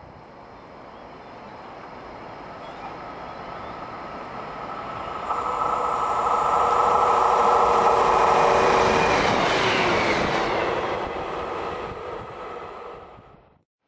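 A diesel multiple unit train approaching and passing at speed: its engine and wheel noise builds steadily, peaks as it goes by with a whine that drops in pitch, then fades away and cuts off suddenly near the end.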